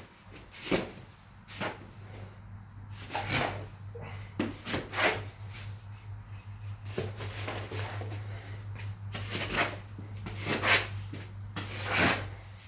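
Mortar hoe scraping and pushing dry-pack shower pan mud back and forth in a plastic mortar tub, a gritty scrape with each stroke, roughly one stroke a second at an uneven pace. A steady low hum runs underneath from about two seconds in until just before the end.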